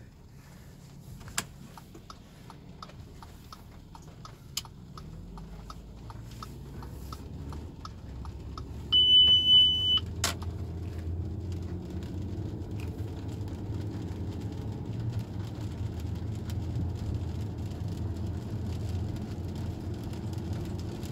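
Light regular ticking, then about nine seconds in an Audi A6 3.2 V6 engine starts and settles into a steady idle, with a single high warning chime lasting about a second as it starts. The car's ABS/ESP unit is faulty.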